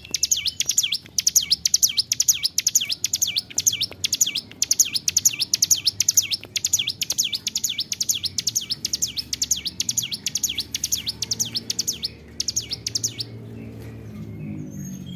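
Ciblek gunung, a small prinia, singing a long, fast song of sharp high notes repeated several times a second in long unbroken phrases. The song stops near the end, leaving only a few faint chirps.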